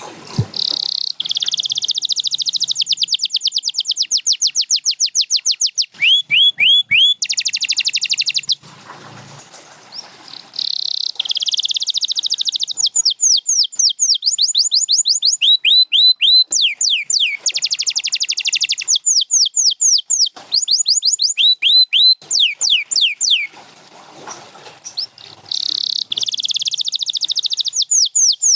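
Domestic canary singing: phrases of very rapid trills alternating with runs of quick, falling whistled notes, high-pitched, with short breaks between phrases.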